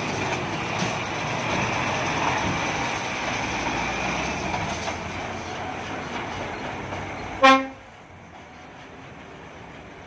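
Scania P460 XT dump truck, laden with coal, driving with steady engine and road noise, then one short, loud horn blast about seven and a half seconds in, after which the noise falls away.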